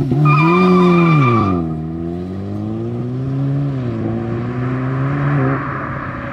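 2015 Audi S3, Stage 1 tuned with a resonator-deleted exhaust, launching at full throttle and accelerating away. Its turbocharged 2.0-litre four-cylinder revs hard while the tires squeal for about a second at the start. The engine note drops sharply at two quick DSG upshifts, then fades as the car pulls away.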